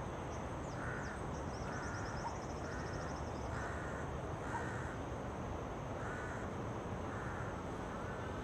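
A bird calling over and over, short cawing calls about one a second, over a steady outdoor hiss. A fast, high, ticking trill sounds briefly near the start.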